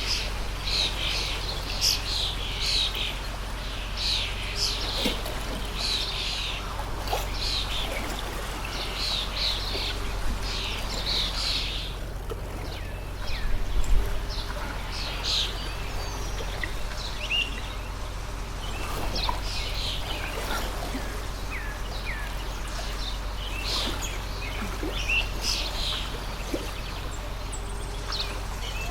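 Small birds chirping again and again over a steady running stream, with one brief thump about halfway through.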